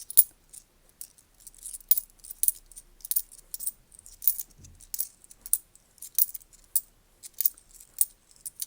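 10p coins clinking against each other as they are flipped through by hand: an irregular run of light, high metallic clinks, about two or three a second.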